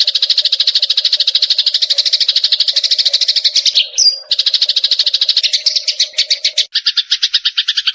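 Eurasian tree sparrow chattering, a fast continuous string of rapid chirps. About four seconds in, the chatter breaks briefly around a single sharp note, and it pauses again briefly near the end.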